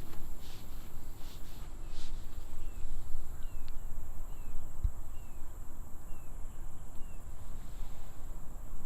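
Natural outdoor ambience: a bird gives a run of short falling chirps in the middle, over a steady high insect buzz and a constant low rumble.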